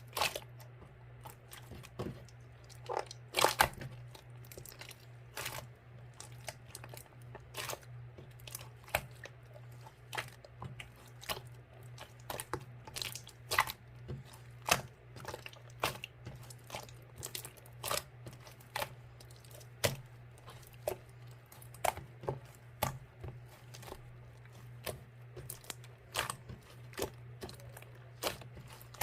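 Slime being pressed and squished by hand, giving irregular sharp pops and clicks about once or twice a second. A steady low hum runs underneath.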